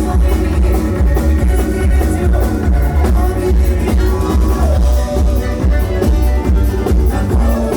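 Bluegrass-style cover band playing a rock song live, loud and continuous, with a heavy steady bass and drum beat under the stringed instruments.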